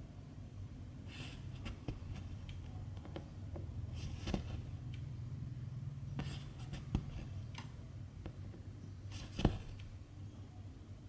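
Cross-stitching by hand: silk thread swished through the fabric in four short strokes a couple of seconds apart, with small ticks of the needle, over a low steady hum.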